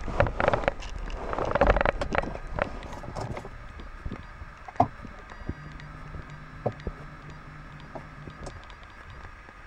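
Rustling and scraping right against a covered microphone for about the first three seconds, as a seatbelt is pulled across. After that come a few scattered clicks over a faint steady hum.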